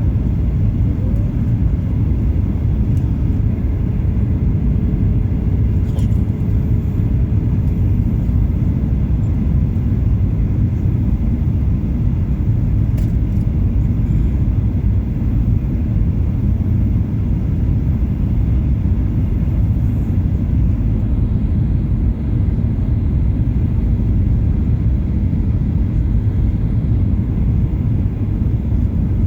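Steady low rumble of a Boeing 737-800's cabin in flight: engine and airflow noise heard from a window seat, unchanging throughout.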